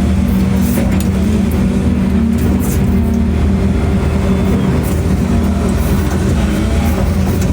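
Engine of a construction machine running steadily, a constant low hum.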